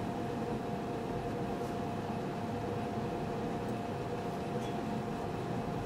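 Steady background hiss with a faint constant hum, with no distinct events.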